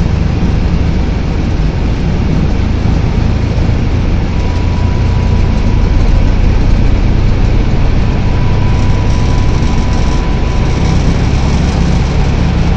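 Steady, loud cockpit noise of an Airbus A321: the jet engines and the airflow around the flight deck make a constant low rumble and hiss. A faint steady high tone starts about four seconds in and comes and goes.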